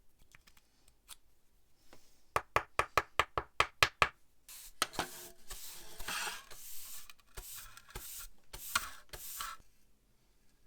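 A quick run of about ten sharp taps, then several seconds of scraping or rubbing strokes: hand work on small restoration parts.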